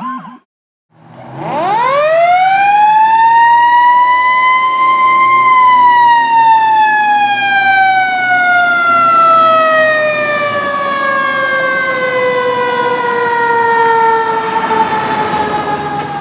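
Fire truck siren of a 2010 Pierce Arrow XT tower ladder, starting about a second in. It winds up to a high whine over about four seconds, then slowly coasts down in pitch for the rest of the stretch, the long rise and fall of a mechanical siren.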